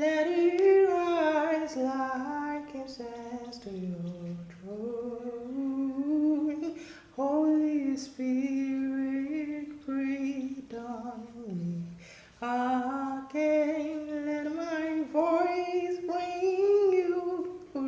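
Unaccompanied solo voice singing a slow worship melody in long held, gliding phrases, with short breaks about 7 and 12 seconds in.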